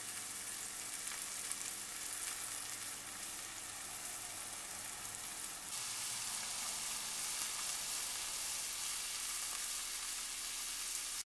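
Onions sizzling and crackling in hot oil in a stainless steel sauté pan. A little over halfway through it changes to diced carrots and onions frying, a little louder and brighter, then the sound cuts off abruptly about a second before the end.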